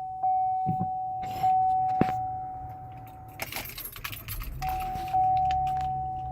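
2011 Cadillac CTS warning chime ringing steadily, one tone repeating about every second, with keys jangling. About three and a half seconds in the chime breaks off for about a second of starter cranking, then the engine catches and idles low under the chime as it resumes.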